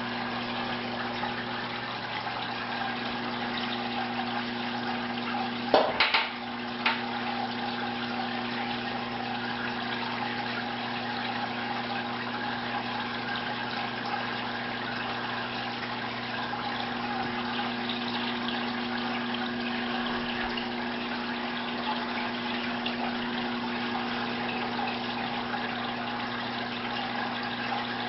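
Aquarium filter running: a steady rush and trickle of water over the low hum of its pump motor. A few sharp knocks come together about six seconds in.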